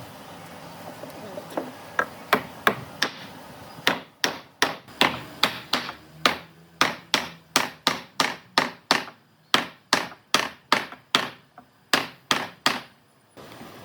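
Hammer blows striking in a steady series, about two or three a second, starting about a second and a half in and stopping shortly before the end.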